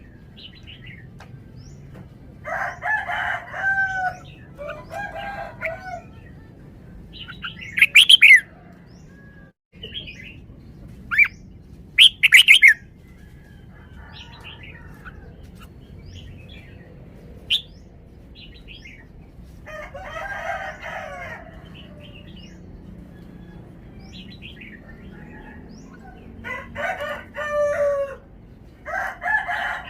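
Red-whiskered bulbul singing short whistled phrases every few seconds, with two louder, sharper bursts of notes about a third of the way in.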